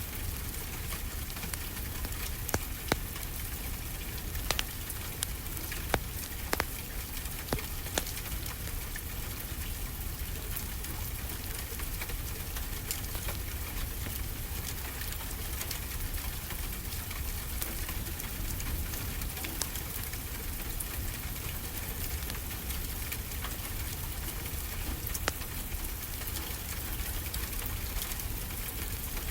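Wood fire crackling in a fireplace, with a handful of sharp pops in the first eight seconds and one more near the end, over a steady rushing hiss and low rumble of ocean waves.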